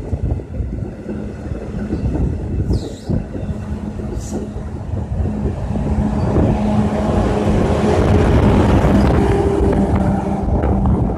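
Train running past: a steady low rumble with a hum, growing louder about halfway through and peaking near the end.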